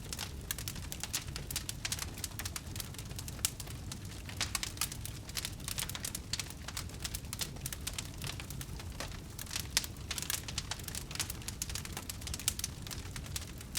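Wood fire burning: dense, irregular crackling and popping over a low, steady rumble.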